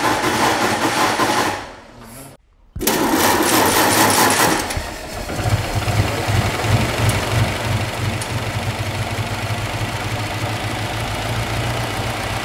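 A WO Bentley 3 Litre's four-cylinder engine being cranked on its starter motor with a whirring churn. The cranking breaks off briefly about two seconds in, then starts again, and about five seconds in the engine catches and settles into a steady, pulsing run.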